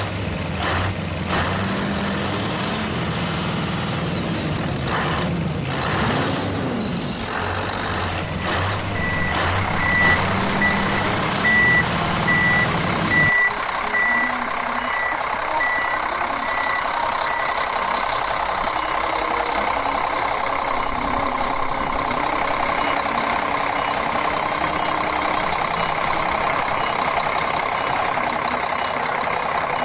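Truck reversing alarm beeping evenly, about two beeps a second for several seconds, over vehicle rumble and clicks. Partway through, the background changes abruptly to a steady running noise.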